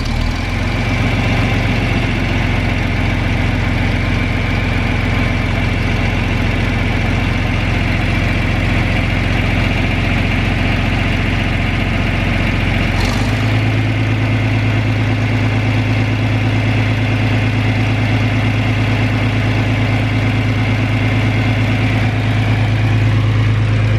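John Deere 4010 tractor engine idling steadily. About halfway through there is a click and the engine note shifts to a different steady speed.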